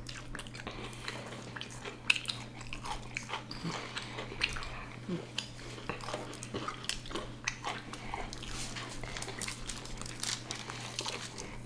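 Close-up chewing of potato chips and fried chicken sandwiches, with many irregular crisp crunches.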